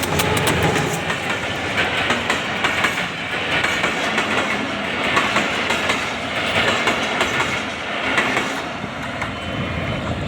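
Passenger train coaches rolling past close by: a steady running noise with irregular clickety-clack of the wheels over the rail joints.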